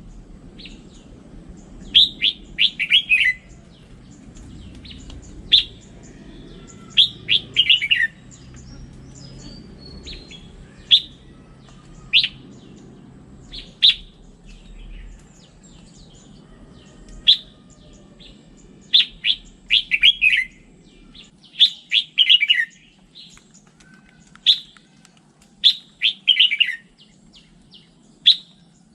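Red-whiskered bulbul singing: short phrases of quick falling notes, each about a second long, mixed with single sharp chirps, repeated every second or two.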